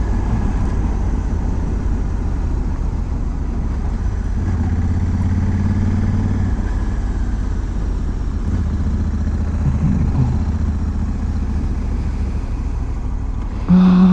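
Honda Africa Twin motorcycle engine running at a steady cruise while riding, a low even hum over wind noise.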